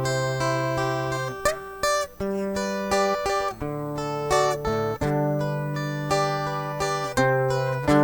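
Instrumental break on a viola, the Brazilian steel-string folk guitar, picking a melody over long held bass notes.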